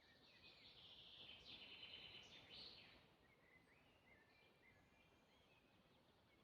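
Faint birdsong: a louder trilling phrase through the first three seconds, then softer scattered chirps and short whistles.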